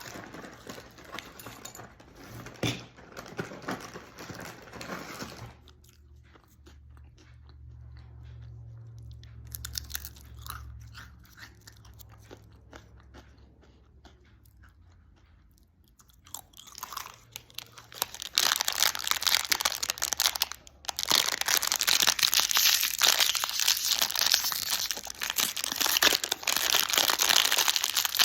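Close-up crunchy chewing and biting of food. It goes quieter for a stretch in the middle, with a low hum, then turns into loud, dense crackling over the last third.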